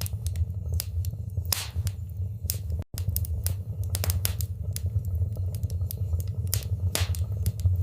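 Wood fire crackling in a fireplace: irregular sharp pops and snaps over a steady low rumble of the burning fire. The sound drops out for a split second about three seconds in.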